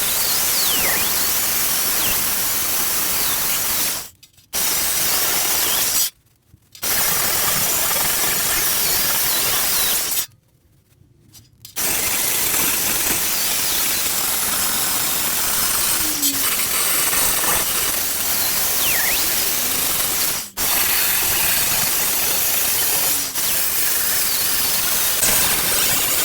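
MIG welder hissing and crackling as patch panels are welded into a car's rear floor pan. The arc stops for short pauses three times in the first twelve seconds.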